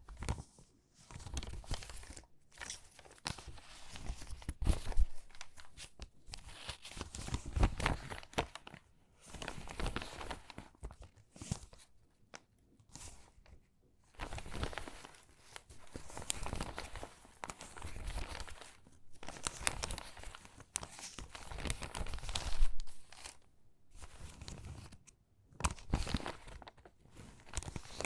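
Stiff, water-damaged magazine pages being handled and shuffled, crinkling and crackling in irregular bursts with short pauses between them.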